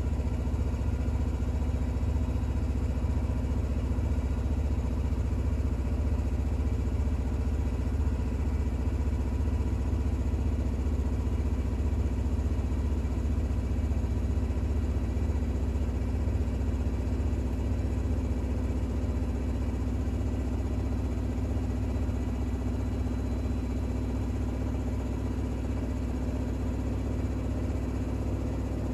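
Bosch WAX32GH1 front-loading washing machine spinning a towel load in its intermediate spin (up to 1200 rpm): a steady hum with a few steady motor tones above it, easing slightly near the end. The load is unbalanced.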